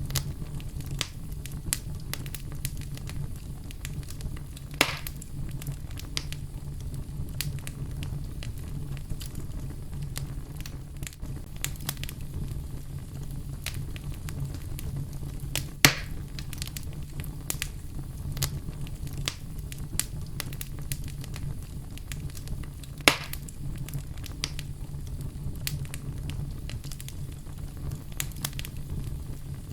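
Wood fire in a fireplace crackling, with many small crackles and three louder sharp pops spread through, over a low steady rumble.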